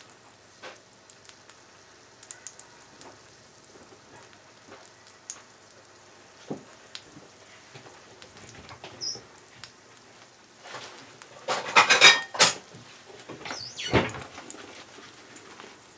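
Grasshoppers frying gently in a little vegetable oil in a cast-iron skillet, just starting to sizzle. A faint sizzle with scattered small pops, then a louder spell of crackling and spitting about eleven to twelve seconds in.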